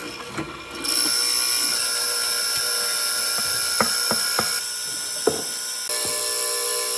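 Electric power tool running steadily on wood, with a few sharp knocks in the middle.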